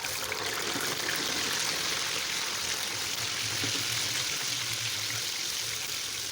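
Raw potato chips deep-frying in hot oil: a steady sizzle that starts abruptly as the second batch goes into the pan.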